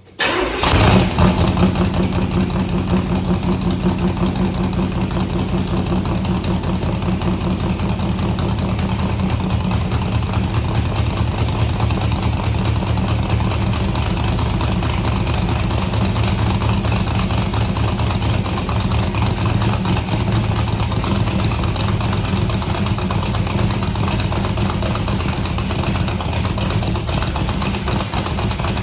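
C3 Corvette V8 cold-started through Doug's side-exit exhaust pipes. It catches right at the start with a brief flare about a second in, then settles into a steady idle with even exhaust pulses.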